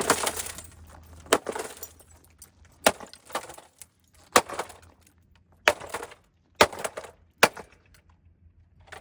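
Repeated blows smashing a robot vacuum cleaner: about eight sharp hits spaced roughly a second apart, each followed by breaking and the clink of broken glass.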